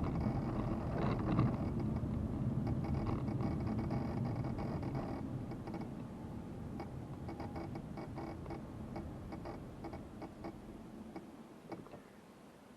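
A car's engine and road noise fading steadily as the car slows, with scattered light clicks and ticks over the middle of the stretch.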